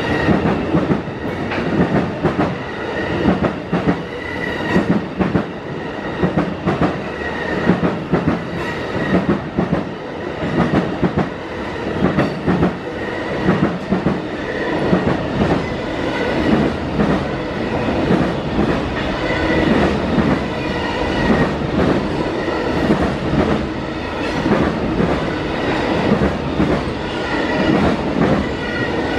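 Covered hopper cars of a CSX freight train rolling past, steel wheels clicking steadily over the track with a faint high wheel squeal that comes and goes.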